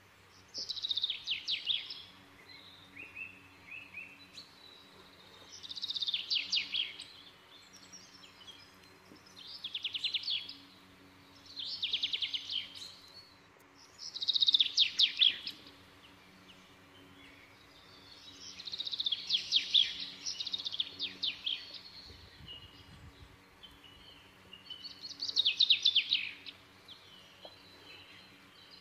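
A small songbird singing short trilled phrases of rapid falling notes, one every two to four seconds, with a longer run of phrases about two-thirds of the way through.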